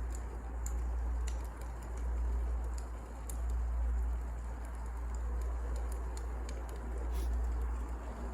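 Wood fire crackling: irregular sharp pops and snaps over a steady low rumble and hiss of burning logs.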